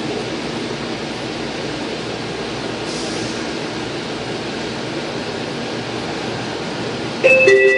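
Steady rumble and hiss of a moving AirTrain JFK car, heard from inside the car. Near the end a louder two-note chime sounds, high then low.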